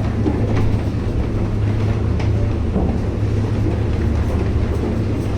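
Train running, heard from inside the car: a steady low rumble with a few faint clicks and knocks.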